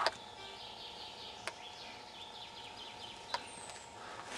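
Wild birds singing in woodland: rapid series of short high chirps repeating throughout, with two sharp clicks about a second and a half in and near the end.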